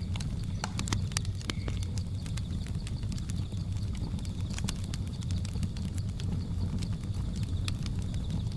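Wood fire crackling with irregular sharp pops over a low steady rumble, mixed with jungle ambience: a steady high drone of insects and a brief high chirp near two seconds in.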